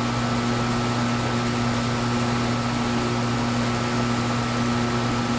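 Metalworking machine tool running steadily, a constant electric-motor hum with a faint higher whine and no change in pitch or level.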